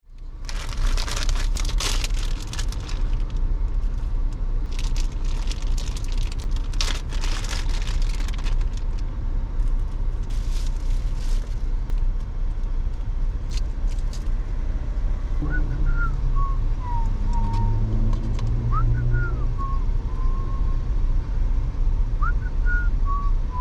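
Steady road-traffic rumble, with crackling in the first several seconds and a few short high chirps in the second half.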